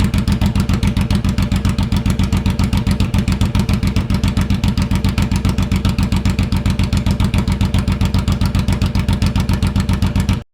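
2008 Suzuki C109R's big V-twin idling steadily with an even, throbbing exhaust pulse, then cutting off suddenly near the end.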